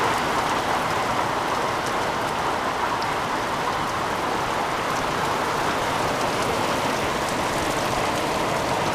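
Heavy rain falling steadily: a dense, even hiss of rain on surfaces, with a few sharper drop ticks standing out.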